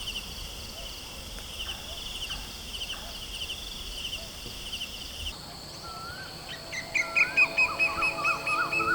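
Outdoor nature sounds: insects chirping in a rapid, even rhythm. About five seconds in, the background changes abruptly and birds start calling with repeated whistled notes that rise and fall, louder near the end.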